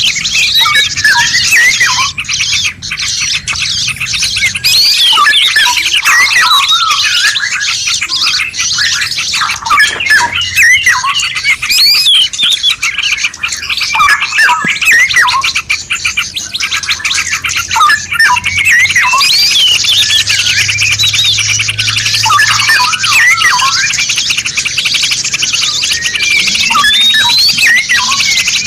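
Many songbirds singing and chirping over one another in a dense, unbroken mix of quick whistles, trills and chirps: a layered masteran recording of several songbird species used to train captive birds.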